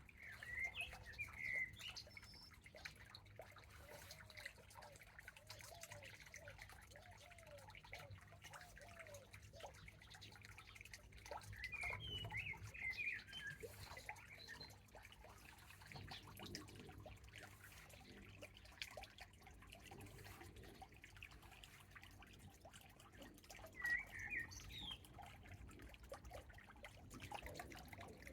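Garden birds singing in short phrases, three times, over faint scattered dripping of rainwater from leaves after rain.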